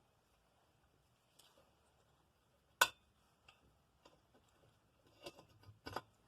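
A few separate light clicks and taps of small metal parts being handled. The loudest comes about three seconds in, with a small cluster near the end.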